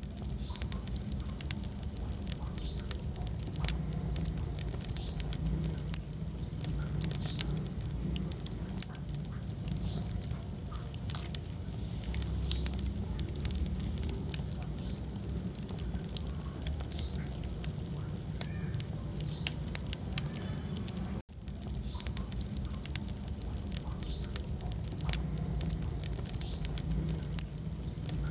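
Wood fire in a fireplace crackling, with frequent sharp pops over a steady low rumble of the flames and short high squeaks every second or two, typical of steam hissing out of burning logs. The sound cuts out for an instant about 21 seconds in.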